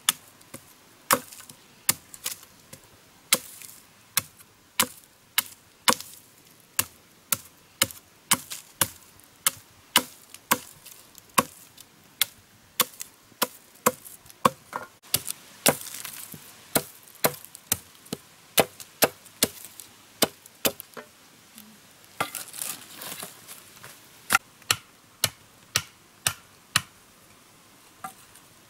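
Steady series of sharp chopping strokes, a blade striking wood, about three strikes every two seconds.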